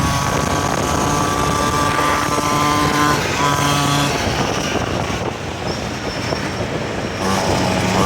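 49cc two-stroke mini bike engine running, holding steady pitches that shift a few times, a little quieter in the middle before picking up again near the end.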